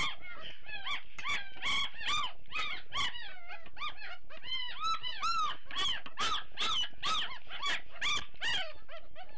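Puppies whining and squealing in a rapid string of high, rising-and-falling cries, two or three a second, while they are being fed.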